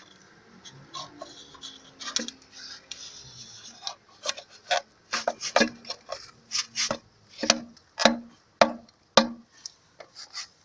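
A hand tool scraping metal on engine parts: a few scattered scrapes and knocks, then about four seconds in a steady run of short rasping strokes, about two a second.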